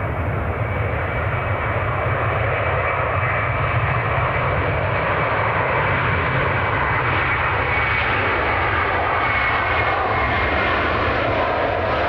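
Airbus A330 twin-engine jet airliner at takeoff power, its engines giving a loud, steady rush of noise. A faint high whine drifts slightly lower in pitch in the second half.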